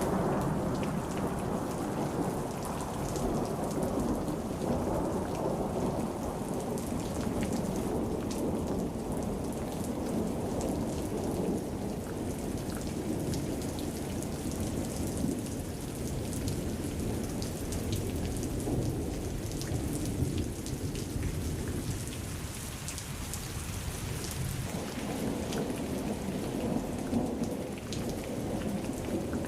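Heavy rain pouring steadily, with a dense low rush underneath and many sharp drop ticks on top, easing slightly about two-thirds of the way through.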